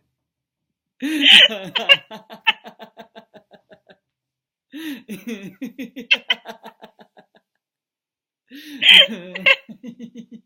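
Laughter yoga laughter: three bouts of hearty laughing, each a run of quick 'ha-ha' pulses that starts loud and trails off, separated by short silences.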